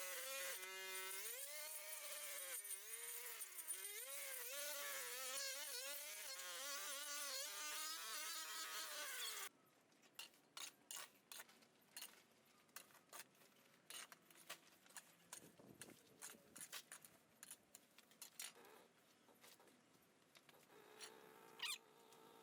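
High whine of a small two-stroke engine, likely a brush cutter, its pitch rising and falling as the throttle changes. It cuts off suddenly about nine seconds in, leaving quiet with scattered light clicks and taps.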